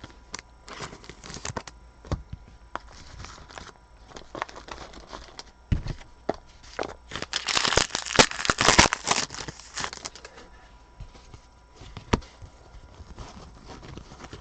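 Trading-card pack wrapper crinkling and tearing, with cards clicking and sliding as they are handled; the crinkling is loudest and densest from about seven to ten seconds in.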